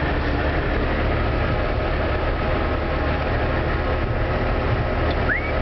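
Trabant's engine running steadily while driving, heard from inside the cabin as an even low drone, with a short rising squeak near the end.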